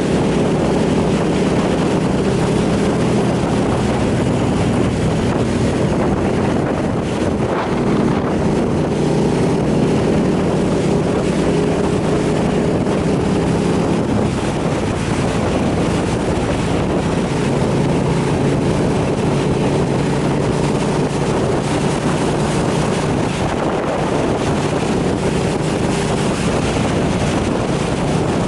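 Motorcycle engine running at road speed, its note shifting a little in pitch, with wind rushing over the microphone.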